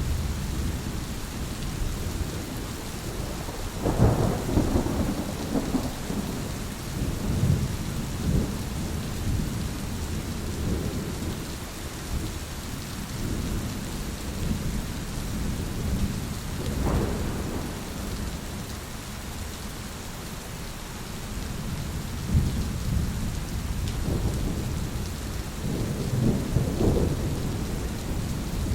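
Steady rain falling, with thunder rumbling low throughout and several louder peals: a sharp one about four seconds in, another about halfway through, and a longer roll near the end.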